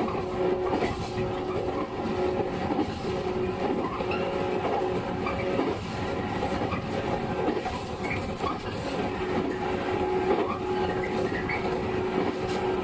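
Running sound of a JR 115 series electric train heard from inside the car: a steady rumble of wheels on rail with a steady hum and occasional rail-joint clicks.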